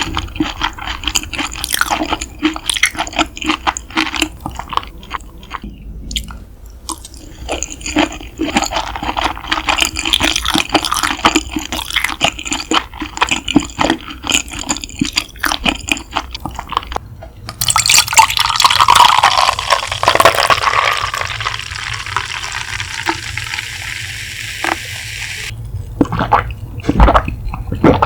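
Close-miked wet chewing and mouth clicks while eating raw beef tartare (yukhoe). A steady stream of liquid runs for about eight seconds after the middle and stops suddenly.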